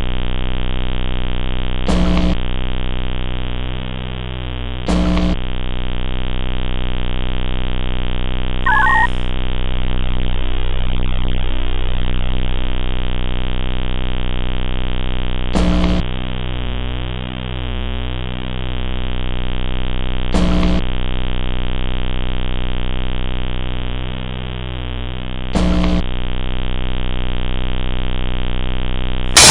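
A loud, steady synthesized drone with a distorted buzz and a slowly sweeping, phasing colour. Short sharp stabs cut in every few seconds, and a brief chirp sounds about nine seconds in.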